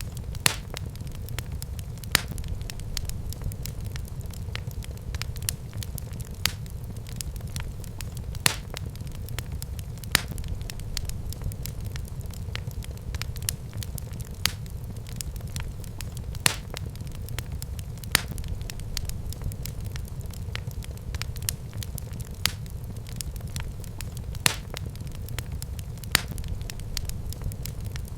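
Fire burning in a fireplace, crackling steadily over a low rumble of the flames, with louder sharp pops every couple of seconds.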